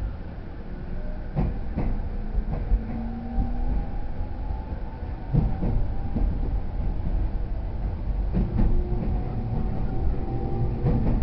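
E231 series 0 commuter EMU running, heard from inside the car: a steady low rumble with wheels clacking over rail joints every second or so, and a faint whine that rises slightly in pitch and then holds.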